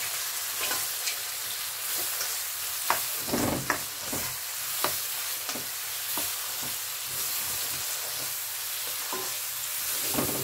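Baby button mushrooms sizzling in garlic butter in a wok, stirred with a plastic spatula that scrapes and taps against the pan. A steady high sizzle with scattered scrapes, most of them about three to five seconds in.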